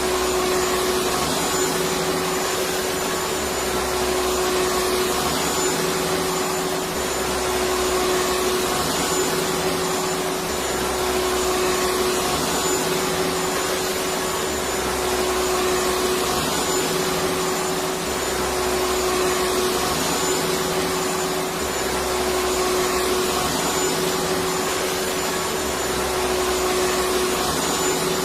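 Electric vacuum cleaner running steadily: a continuous rushing noise with a steady motor tone.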